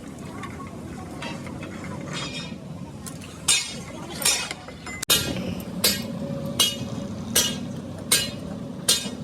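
Metal being struck with a hammer in steady, evenly spaced blows, about one every three-quarters of a second, each with a short metallic ring. The blows start a few seconds in, after a few fainter taps.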